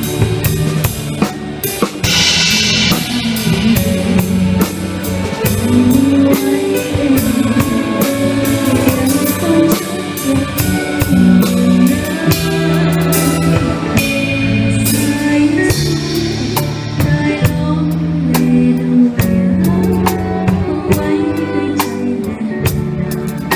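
Band music with a drum kit keeping a steady beat under bass and guitar, likely an instrumental passage of a Thai pop song.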